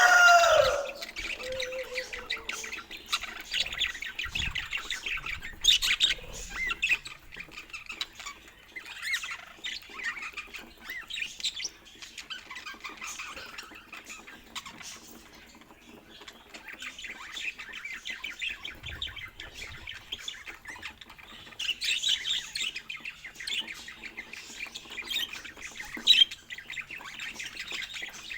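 Budgerigars chattering, a continuous stream of quick high chirps and squawks that gets busier near the end. The tail of a rooster's crow fades out in the first second.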